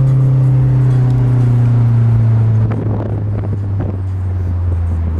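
Car engine running with a strong steady note that slowly falls in pitch. About two and a half seconds in it drops to a lower, quieter note, with a few light knocks over the engine.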